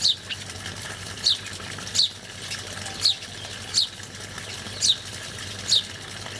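A songbird repeating a short, high chirp that falls in pitch, about once a second, seven times, over a steady faint hum and hiss.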